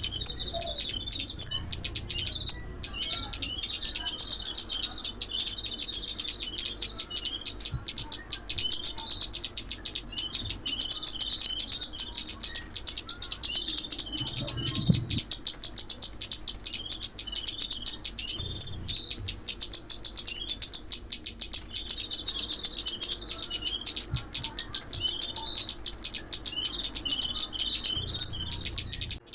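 Crimson sunbird song recording: fast, high-pitched chirps and twitters in a dense, unbroken stream, with one short pause about two and a half seconds in, played as a trapping lure call.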